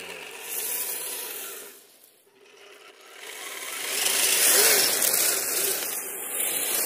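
Radio-controlled tracked snow vehicle running over snow, its motor and tracks rattling and scraping. The sound almost drops out around two seconds in, then grows louder from about three seconds on.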